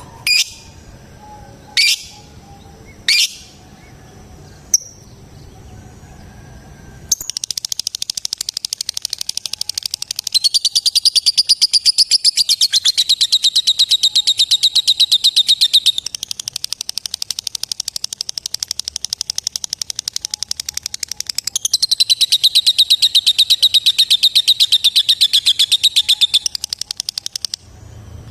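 Female lovebird giving a few sharp single calls, then about seven seconds in breaking into a long, fast, pulsed chattering trill that runs for about twenty seconds. The trill swells louder twice and stops shortly before the end.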